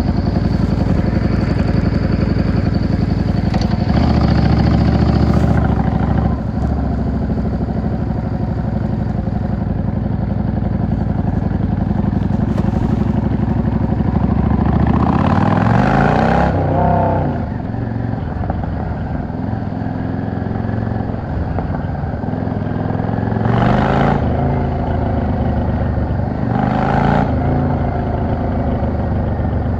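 Yamaha XVS 650 V-Star's air-cooled V-twin engine running under way. Its pitch rises as it accelerates about halfway through, falls again shortly after, and there are two short surges of throttle near the end.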